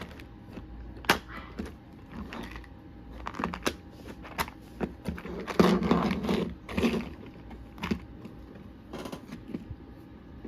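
Small items and their packaging being handled: irregular clicks, taps and rustles, with a louder rustle about six seconds in.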